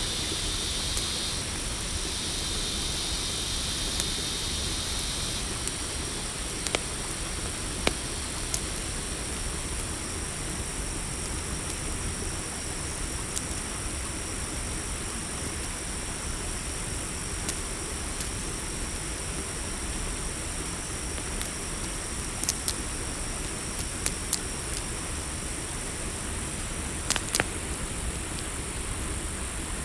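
Campfire crackling, with a steady hiss and a few sharp pops scattered through, under the steady high chirring of night insects such as crickets. One higher insect trill stops about five seconds in.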